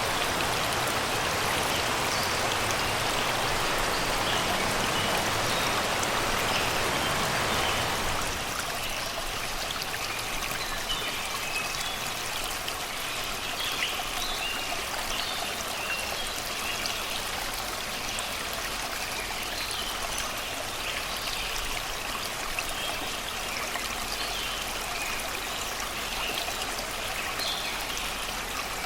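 Shallow river water rushing and babbling over rocks and stones, a steady hiss that drops about eight seconds in to a softer, lighter trickle. Forest birds sing in short chirps in the background through the second part.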